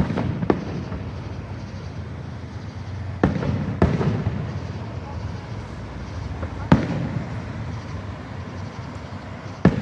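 Aerial fireworks bursting: about six sharp bangs, irregularly spaced, each followed by a short rumbling echo, over a steady low background hum.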